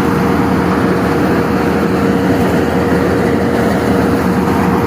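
Wheat combine harvester running steadily as it begins cutting wheat: a dense, even machine noise with a steady whine.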